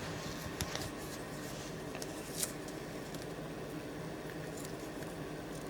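Faint handling of protective tape being pressed and smoothed onto a knife, a few light ticks and rustles over a steady room hiss.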